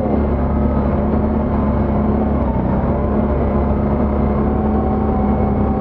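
ATV engine running steadily while riding along a trail, an even, unchanging drone.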